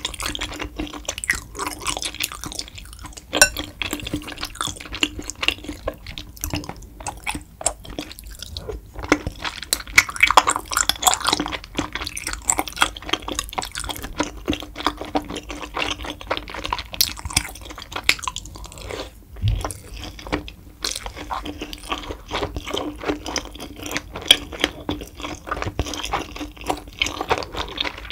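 A person chewing saucy tteokbokki close to the microphone: wet, sticky mouth sounds with frequent small clicks and smacks.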